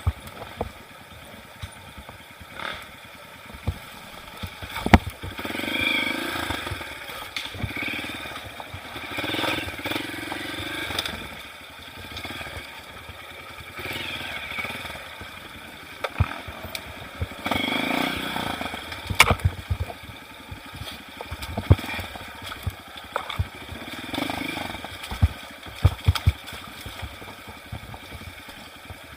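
Trail motorcycle engine running, swelling in bursts of throttle every few seconds, with many sharp knocks and clattering throughout.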